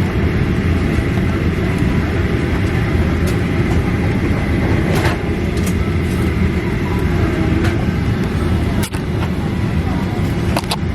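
Airliner cabin noise while parked at the gate: a steady low rumble with hiss, and a few faint clicks.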